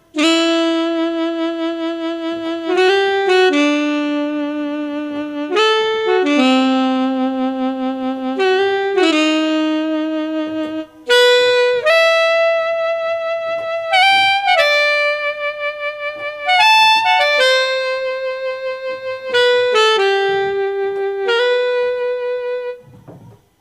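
Roland GW-8 arranger keyboard playing a saxophone tone: a single-line melody of held notes in two phrases, with a short break about halfway.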